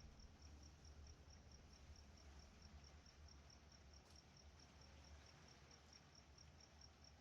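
A cricket chirping faintly and steadily, about five short high chirps a second, over a low hum.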